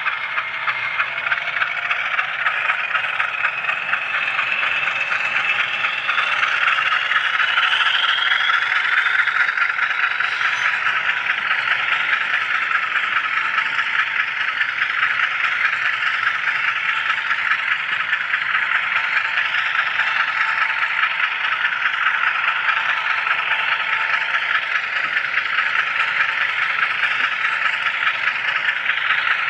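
HO scale camera car rolling along model railroad track, its small wheels making a steady close-up clatter and rattle on the rails. A thin motor whine rises in pitch over the first several seconds as the train picks up speed.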